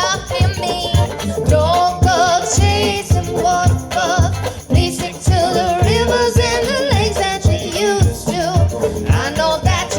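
A bluegrass band playing, with singing over a regular low bass beat.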